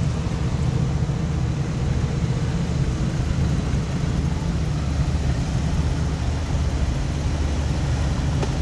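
Engines of a slow line of hot rods and classic cars idling and rolling past at low speed: a steady, low engine sound with no revving.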